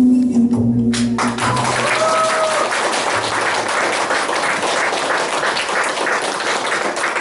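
The song's last held note ends about a second in, and an audience breaks into sustained applause.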